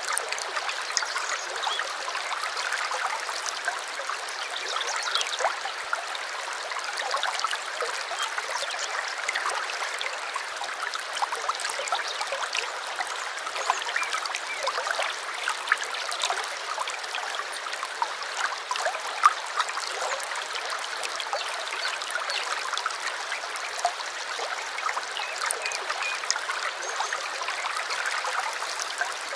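A small stream babbling and trickling steadily over stones, with many small splashes and drips.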